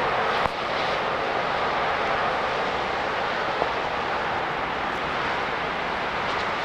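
Steady rushing noise of a passenger train's coaches running away at speed through heavy rain, mixed with the hiss of the downpour, slowly fading. There are two sharp clicks, about half a second and three and a half seconds in.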